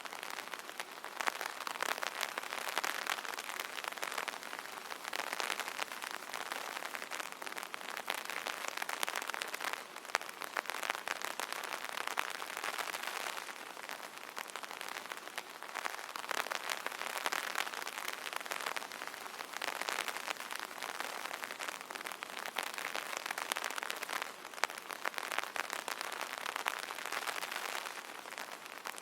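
Steady rain pattering on an umbrella canopy, a dense stream of small drop ticks that swells and eases slightly every few seconds.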